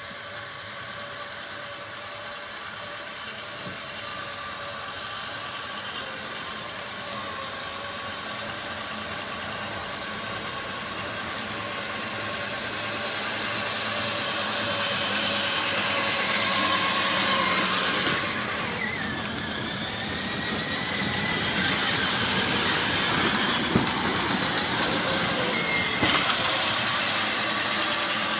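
A motor vehicle's engine running steadily, growing slowly louder over the first half, with a rising hiss; a few sharp clicks come near the end.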